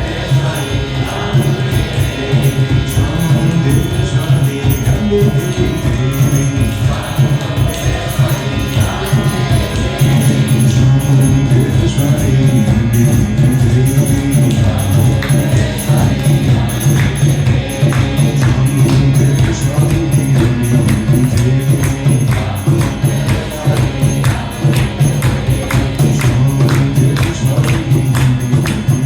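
Kirtan music: voices chanting a devotional mantra in song over a steady low drone, with jingling hand percussion keeping an even beat.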